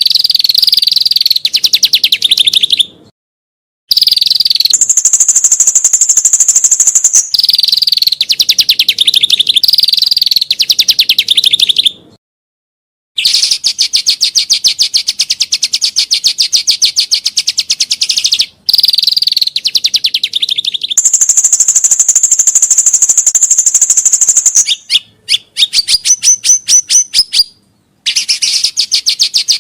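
Recorded songbird training song: loud, rapid, dense trills at a high pitch that switch between a lower and a higher register. The song stops dead three times, at about 3 seconds, 12 seconds and near the end, as the recording is cut. Shortly before the last cut comes a brief series of separate clear whistled notes.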